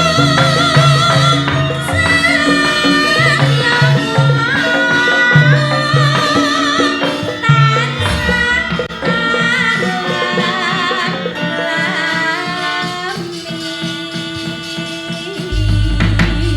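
Javanese gamelan music with a woman's singing voice wavering over it, a low drum pattern beating under the first half. A deep, held low tone comes in near the end.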